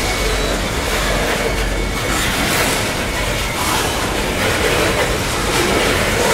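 Steel-wheeled coal hopper cars of a freight train rolling past close by: a steady rumble of wheels on rail with the clatter of the trucks.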